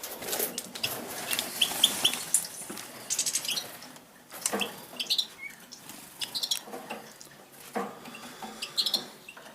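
Tame finches chirping with many short, high calls, among scattered wing flutters and sharp clicks.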